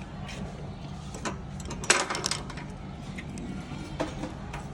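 Sharp knocks and a short burst of clatter about two seconds in, from parts or tools being handled during an air compressor restoration, over a steady low hum.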